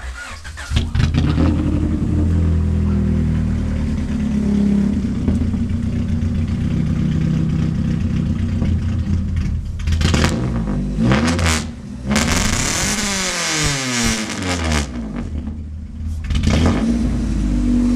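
Honda H22A4 four-cylinder VTEC engine in a Civic hatch starting up and idling, then blipped several times, with one longer rev that climbs and falls back. The engine has a suspected broken piston ring in cylinder 1, which the owner blames on hitting the 2-step.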